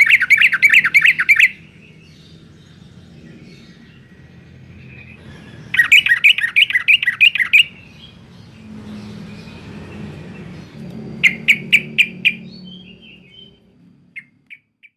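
Yellow-vented bulbul (trucuk) singing: three bursts of rapid, bubbly chattering notes a few seconds apart, then a few short single notes near the end.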